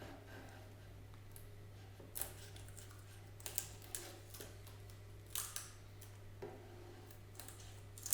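Hand-tool work on a workbench: a few short, sharp strokes at irregular intervals, over a steady low hum.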